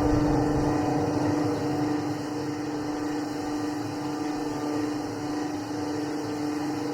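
Steady mechanical hum: an engine or motor running at a constant pitch over a low rumble.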